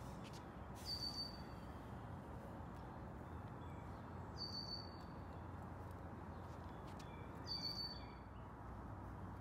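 A bird calling three times, a short high note roughly every three seconds, over a faint steady hum of outdoor background noise.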